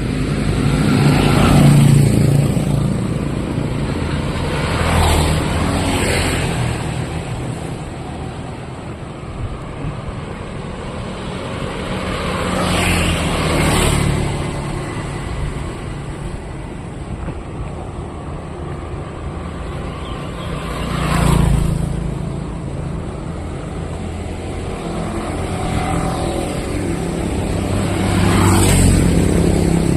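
Street traffic: about five motor vehicles pass one after another, each swelling and fading over a few seconds, over a steady background hum of traffic.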